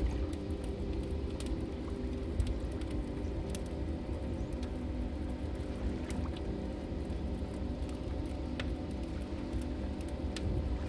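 Wood fire burning in a fireplace: irregular sharp crackles and pops from the logs over a low steady rumble.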